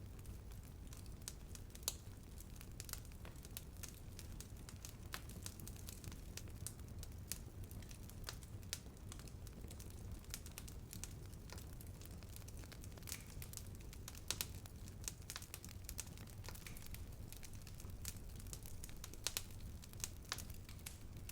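Fire burning and crackling: irregular sharp pops and snaps, a few louder than the rest, over a steady low rumble.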